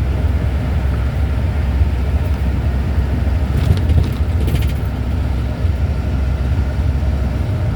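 Steady engine and road noise inside a moving truck's cab, a constant low drone with a hiss of tyre and road noise above it. A few faint ticks come about four seconds in.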